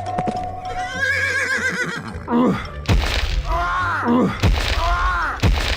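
Horse whinnying sound effects: two or three whinnies in a row that rise and then fall in pitch, with sharp hits between them.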